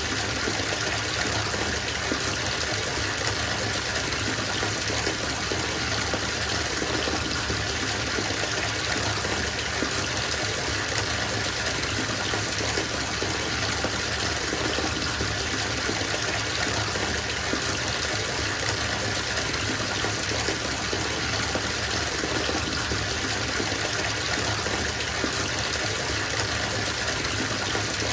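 Bathtub filling from its tap: a steady stream of water gushing into the tub.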